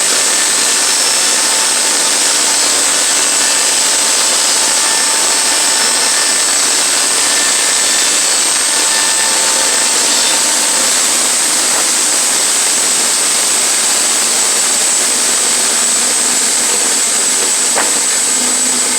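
Sawmill running steadily while ripping pine boards into 1x4s, its engine and blade making a loud, even, high-pitched noise.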